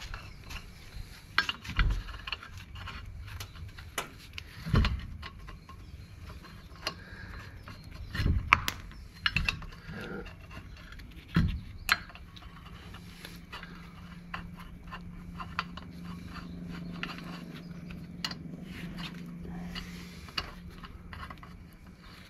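Scattered metallic clinks, scrapes and knocks of hand tools and brake parts being handled during drum-brake shoe work on a Ford Transit, with a few heavier thuds. A low steady hum runs through the second half.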